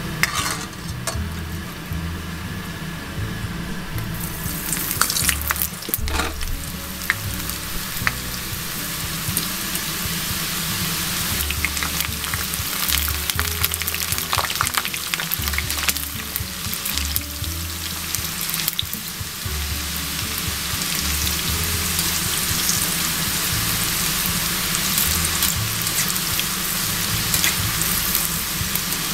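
Food sizzling as it fries in hot oil, getting louder about four seconds in and again past the middle, with scattered sharp clicks of a cooking utensil against the pan. Background music with low bass notes runs underneath.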